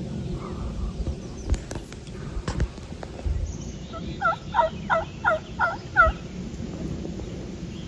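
Turkey yelping: a series of six evenly spaced yelps, about three a second, each breaking from a higher to a lower note, a little past the middle. A few sharp clicks come before it.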